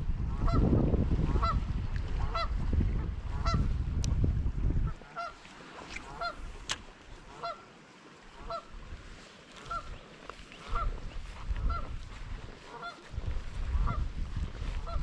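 A bird calling over and over, short calls about one to two a second. Low rumbling noise, heavy for the first five seconds and again in the last few.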